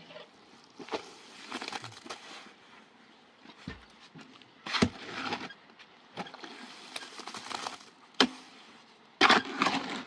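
Irregular knocks, clatters and cracks of hard materials being handled, with sharp strikes about five, eight and nine seconds in.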